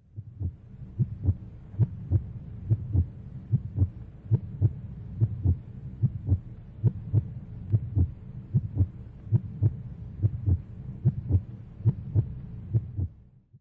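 Heartbeat sound effect: a steady lub-dub pulse, about seventy beats a minute, that stops abruptly near the end.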